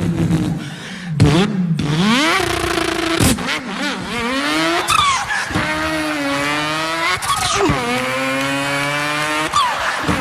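A man imitating a racing car engine with his voice: the pitch climbs as if revving through the gears and drops sharply several times, like gear changes, with brief high squealing sweeps.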